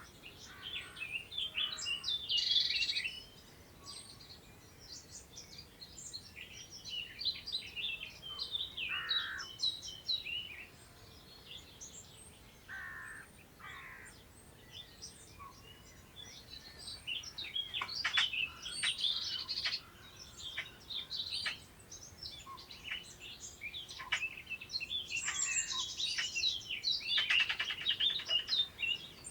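Several songbirds singing and calling at once, a dense mix of high chirps, trills and warbles with brief lulls between busier spells.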